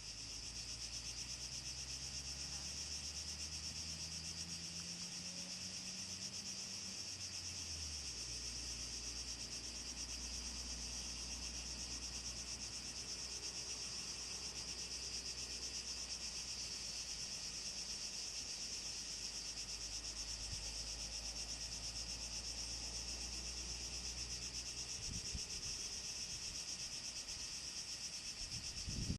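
Cicadas singing in a dense, steady chorus: a continuous high-pitched buzzing drone. A faint low rumble lies underneath.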